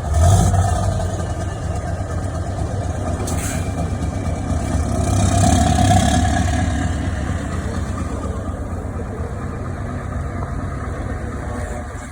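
Scania truck engine running, swelling to its loudest about five to six seconds in, then fading away.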